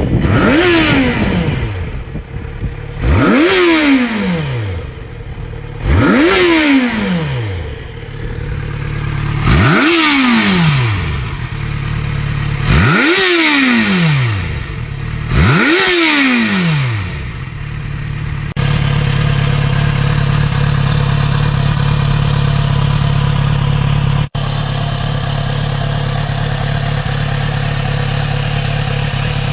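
Large motorcycle engine revved six times in quick blips, each rising sharply and falling back, then settling into a steady idle for the last ten seconds.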